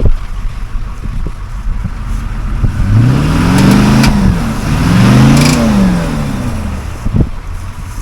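Off-road 4x4's engine revving up and dropping back twice, about three seconds in, as it strains to climb over an obstacle with a wheel hung up on a tree, with a few sharp knocks from the vehicle.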